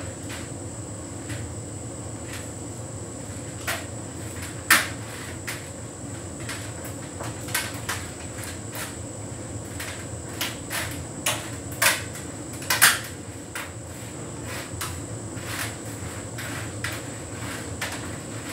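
Hotpoint heat pump tumble dryer running a synthetics cycle: a steady hum of motor and drum, with irregular knocks and clacks as the laundry tumbles in the drum. The loudest knocks come about 5 and 13 seconds in.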